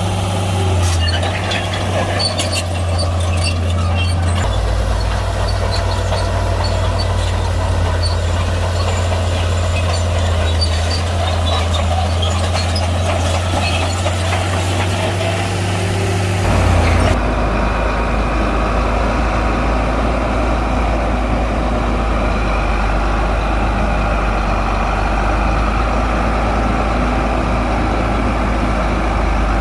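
Heavy diesel engine of a Shantui crawler bulldozer running steadily, with many sharp rattles and clinks over it as it works through stone. About two thirds of the way in the sound changes abruptly: the clatter stops and only the engine's steady running is left.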